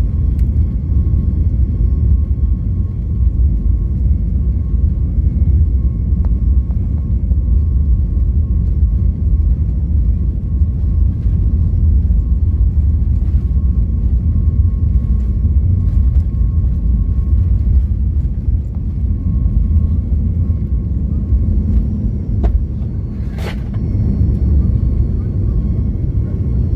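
Cabin noise inside a Boeing 737-8 MAX airliner: a steady, loud low rumble from its CFM LEAP-1B engines and the airframe, with a faint steady whine above it. The rumble dips slightly a little past the middle and comes back up, with one sharp click about three-quarters of the way through.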